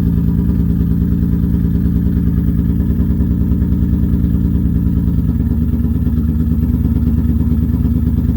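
Turbocharged Infiniti G35's V6 idling steadily, its exhaust downpipe not yet finished. The idle note shifts slightly about five seconds in.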